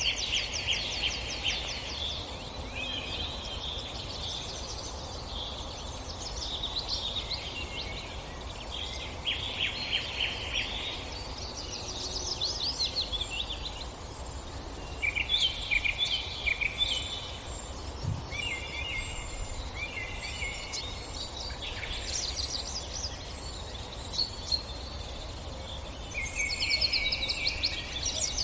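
Birds singing in bursts of rapid, trilled notes that come and go every few seconds, over a steady background hiss.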